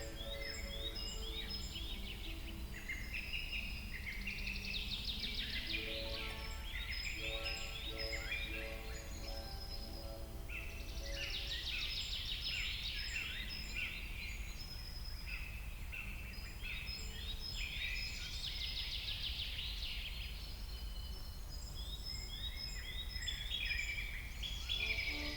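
Several songbirds singing at once, a dense run of quick high chirps and falling trills that thicken and thin in waves, over a steady low rush.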